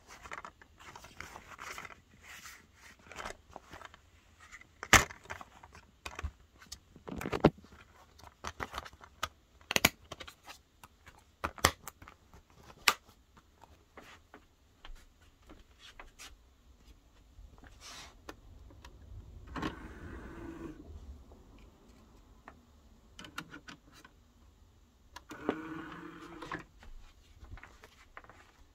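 Handling noises: a run of irregular sharp clicks, clacks and rattles, with two short whirring stretches about twenty and twenty-six seconds in.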